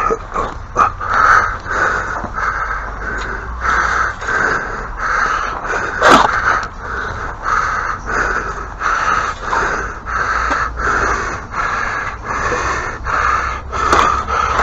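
Rhythmic scraping strokes, about two a second, with a few sharp clicks; one click about six seconds in is the loudest.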